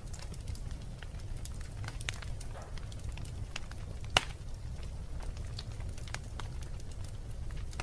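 Wood fire in a fireplace crackling, with frequent small pops and one sharp, loud snap about four seconds in, over a low steady rumble.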